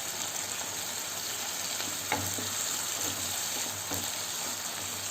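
Onion, green chillies and tomato sizzling in hot oil and ghee in a pan, a steady frying hiss with a couple of soft strokes from the stirring spoon.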